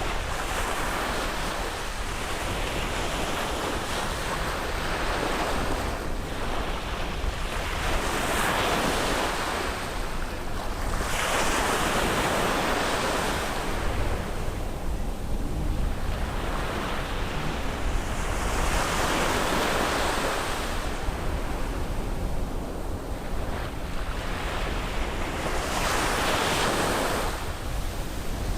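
Sea waves breaking and washing up onto a beach, the surf swelling and easing in surges every several seconds over a steady low rumble, with some wind buffeting the microphone.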